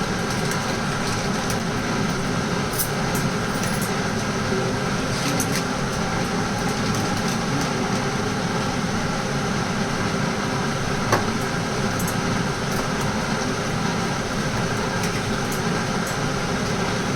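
Steady mechanical hum with faint steady tones, with a few light clicks, one about eleven seconds in.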